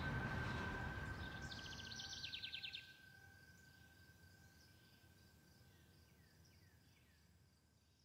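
Outdoor nature ambience fading out. A low rumble and a steady high hum die away while a bird gives a rapid trill of chirps about two seconds in. A few faint falling chirps follow later.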